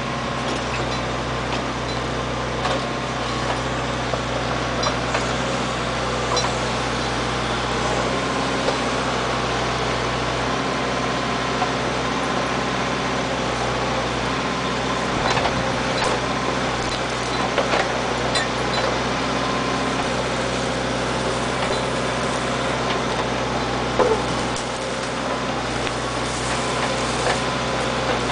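Backhoe engine running steadily, with a steady hum and a few sharp knocks here and there, the strongest near the end.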